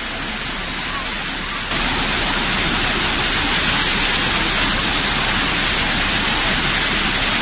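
Heavy rain pouring down, a dense steady hiss that jumps louder about two seconds in.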